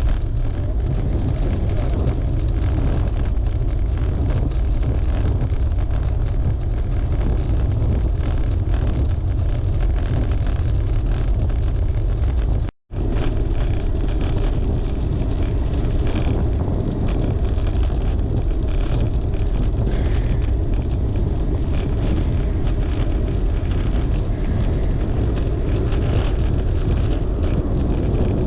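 Wind buffeting the microphone of a camera riding along on a road bike at speed: a steady, loud low rumble with a faint hiss above it. The sound cuts out for an instant about halfway through, then resumes.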